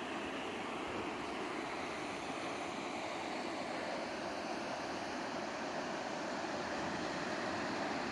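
Steady rush of river water, an even hiss that holds at the same level throughout.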